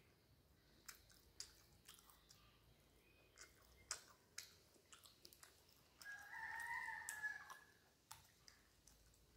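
Soft, wet mouth clicks and smacks of someone chewing food eaten by hand, close to a clip-on microphone. About six seconds in, a rooster crows once in the background, lasting nearly two seconds, the loudest sound here.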